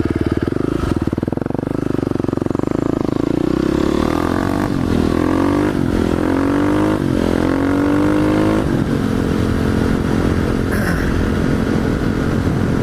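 Motorcycle engine pulling away: the revs rise and drop back several times as it shifts up through the gears, then it holds a steady cruising note from about nine seconds in.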